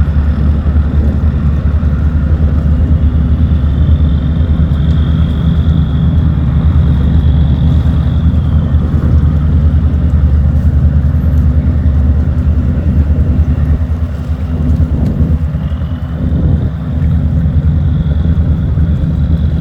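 Diesel engine of a river tugboat running steadily under load, a loud, even low drone while towing cargo barges upstream.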